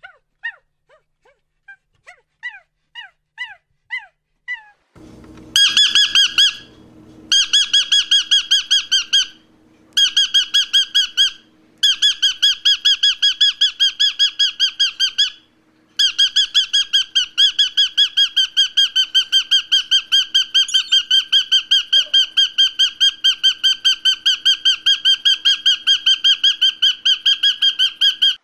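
A small animal or bird calling with rapid, high-pitched squeaks. Soft falling chirps come first. About five seconds in, a fast run of loud squeaks starts, about seven a second, in bursts with short breaks, then unbroken.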